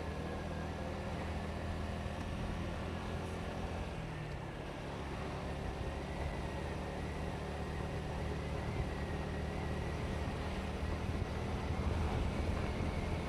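Motorcycle engine running steadily while riding, with road and wind noise on a helmet-mounted microphone; it gets slightly louder near the end.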